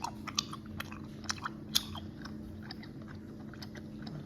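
Close-up mouth sounds of someone chewing Haribo gummy candy: a run of wet clicks and smacks, busiest in the first two seconds and sparser after, over a steady low hum.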